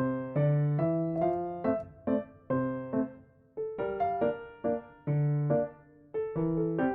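Background music: a gentle piano melody with chords, notes struck about twice a second with short pauses between phrases.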